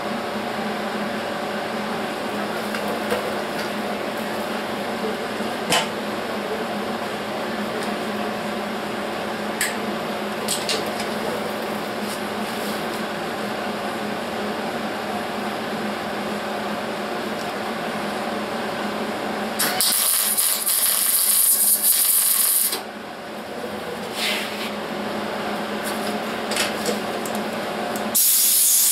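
Steady machine hum with a few sharp clicks, then a welding arc sizzling on sheet steel in a burst of about three seconds, and again near the end: stitch welding a wheelhouse seam.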